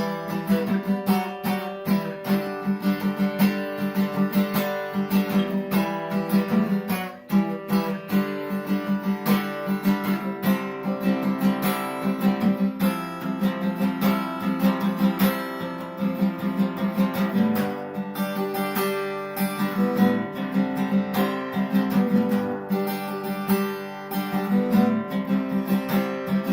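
Acoustic guitar being strummed in a steady rhythm, the instrumental opening of a song.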